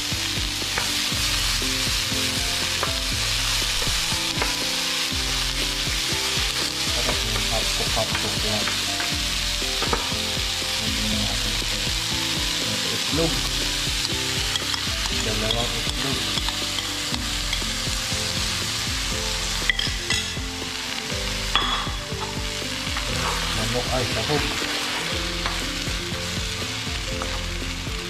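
Food sizzling steadily in hot cooking oil in a pan, with a few light knocks about twenty seconds in.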